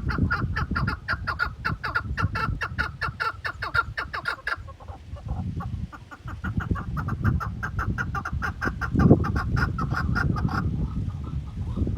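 Chukar partridge giving its rapid clucking rally call: two long runs of quick repeated notes, about six or seven a second, with a short break between them, over a low rumble.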